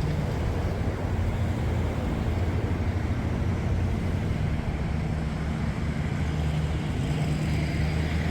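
Lookout Mountain Incline Railway car running on its rails: a steady low rumble and hum.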